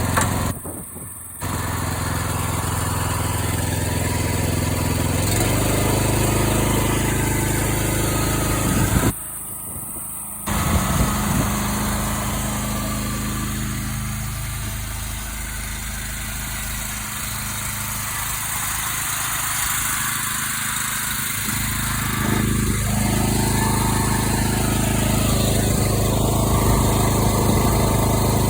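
Small Honda petrol engine on a BCS 740 two-wheel tractor with flail mower, running steadily. Its speed shifts a few times, and the sound drops briefly twice, about a second in and near the middle.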